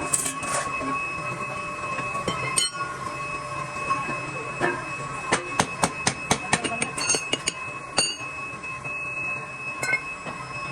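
Steady high-pitched machine whine with a quick run of sharp metallic taps and clinks in the middle, metal striking metal.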